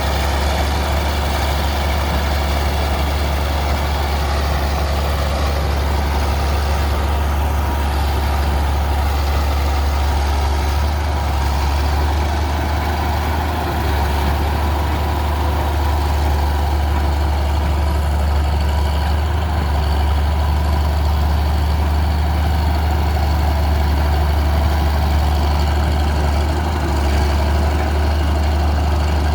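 Bulldozer's diesel engine running steadily, a deep, even drone that barely changes.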